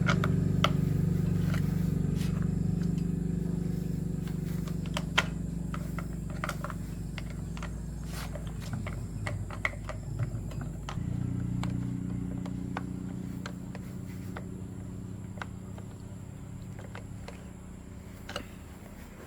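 An electric motor running with a steady hum, which shifts to a different, lower-level hum about eleven seconds in and then slowly fades. Scattered sharp clicks and taps sound over it.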